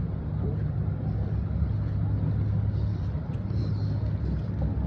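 Steady low rumble of wind buffeting the microphone outdoors, without a break.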